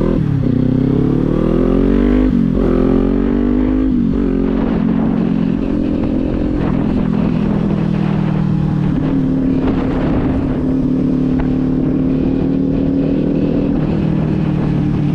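Kawasaki Z400 motorcycle's parallel-twin engine pulling hard, its pitch climbing, dropping at an upshift about two seconds in, climbing again, then settling to a steady cruise after about four seconds.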